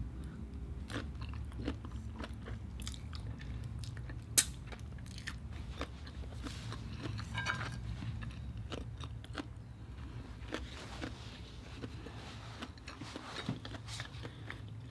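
Close-up biting and chewing of large peeled shrimp, with wet mouth smacks and small clicks over a steady low hum. One sharper click comes about four seconds in.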